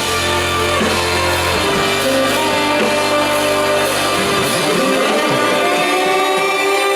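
Live band music: sustained higher tones over a deep held bass note, with the bass dropping out about four seconds in.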